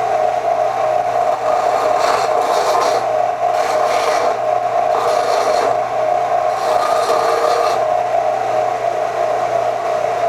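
Electric grinder running steadily while metal is pressed against it in four short scraping stretches, rust being ground off the wrench. Near the end the motor is switched off and begins to spin down.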